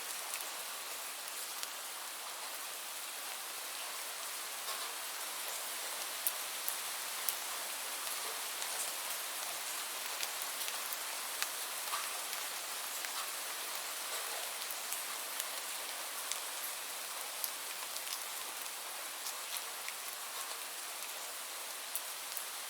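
Steady rainfall: an even hiss of rain with many individual drops ticking on a surface.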